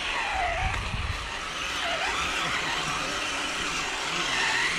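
Electric motor and gearbox whine of a radio-controlled scale trail truck, its pitch dipping and rising with the throttle, over a steady rushing noise.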